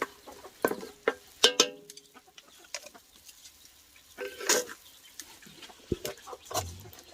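Chickens clucking in short calls, among scattered knocks and rustles.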